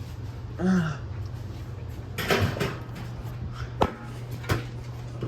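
Objects being handled and put away: a rustle, then a couple of sharp knocks, over a steady low hum.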